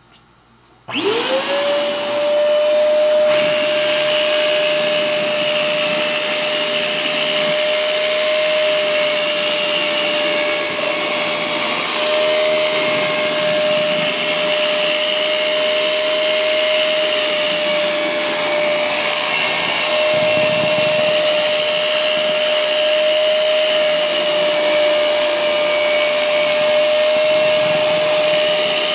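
Futon vacuum cleaner (LSJ-601) switched on about a second in: its motor spins up with a quick rising whine, then runs steadily with a constant tone over a strong rushing-air hiss.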